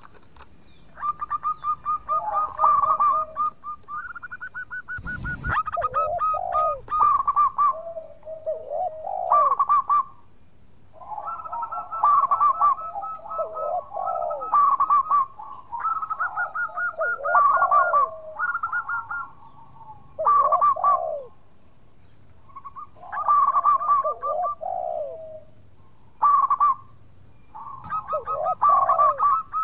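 Zebra dove (perkutut) cooing: repeated phrases of quick rippling coos every couple of seconds, sometimes overlapping. A brief low thump about five seconds in.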